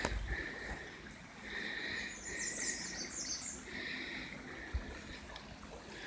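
Birds calling outdoors: a series of short, buzzy calls repeating every second or so, with a high, stepped, descending phrase from another bird in the middle.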